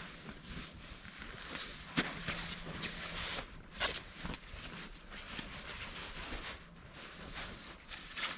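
Sleeping bags being handled and zipped: repeated rustling of the bag fabric and a zipper being drawn, with a few sharp clicks.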